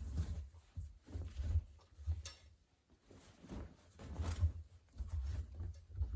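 Laundry being loaded into a front-loading washing machine's drum: irregular rustling of fabric with soft, dull bumps.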